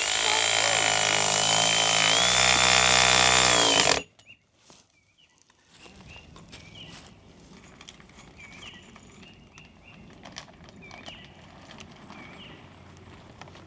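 A power tool motor runs for about four seconds, stepping up in pitch about two seconds in, then stops abruptly. Afterwards birds chirp faintly and repeatedly.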